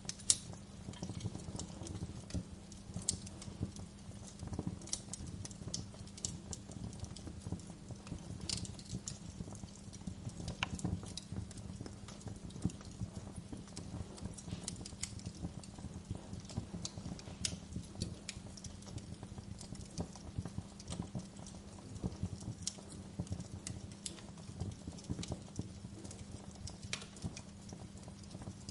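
Wood fire crackling: a steady stream of small crackles with sharper pops scattered through, over a low steady rumble, and one louder pop just after the start.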